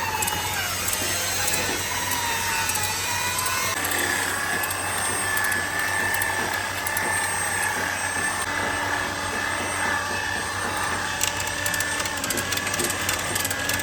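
A power tool running steadily with a whining tone over a noisy hiss, the whine settling to a constant pitch about four seconds in.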